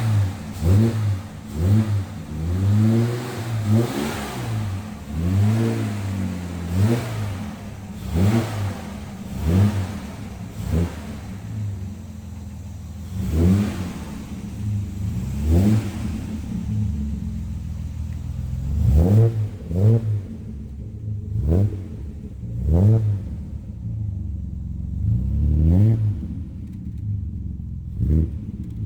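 1966 Austin-Healey straight-six engine with a straight-pipe exhaust, revved in a long series of short throttle blips, each rising in pitch and dropping back to idle.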